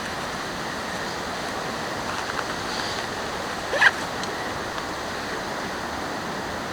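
Steady rain falling, an even hiss. A brief, sharp rising sound stands out just under four seconds in.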